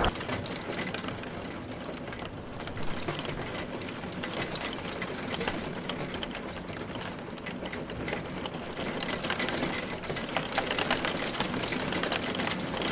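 An engine running steadily with a fast, dense mechanical clatter.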